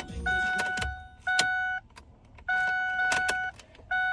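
Ford F-250's dashboard warning chime sounding as a repeated steady tone, about once a second, with a few sharp clicks and a low knock in between.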